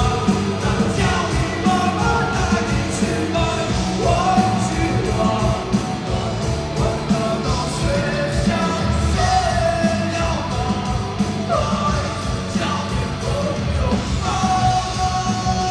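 Live rock band playing at full volume, with a lead vocal sung and yelled over the band.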